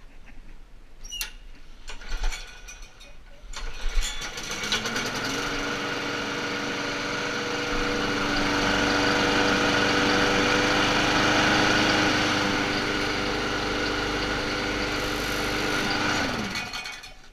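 Briggs & Stratton Quantum single-cylinder lawn mower engine being pull-started with a freshly fitted recoil rope. It catches about four seconds in, comes up to a steady running speed, then is shut off near the end, its pitch dropping as it winds down.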